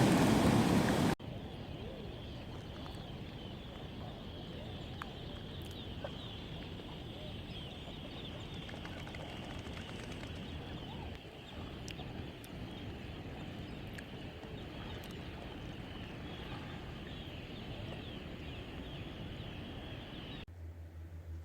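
A flock of birds calling all together: a dense, continuous chatter of many short high chirps over a low rumble.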